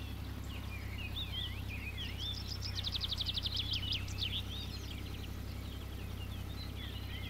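Birds chirping and calling in short rising and falling notes, with a fast trill about three seconds in, over a steady low hum.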